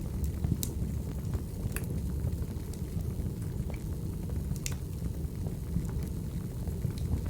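Crackling wood fire: a steady low roar of burning logs with scattered sharp pops and snaps.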